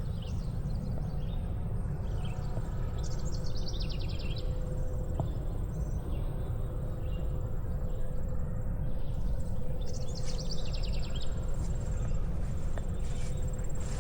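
Outdoor ambience: a steady low rumble under a thin, steady high insect drone, with a bird's rapid trill twice, about three seconds in and again about ten seconds in.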